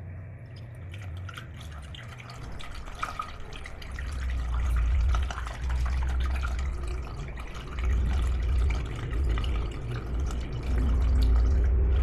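Coolant being poured into a car radiator: liquid splashing and glugging, getting louder about four seconds in.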